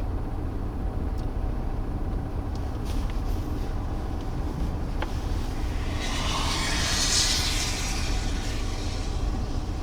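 Steady low rumble of a vehicle's engine and cabin, with a swell of hiss that rises and fades about six to eight seconds in.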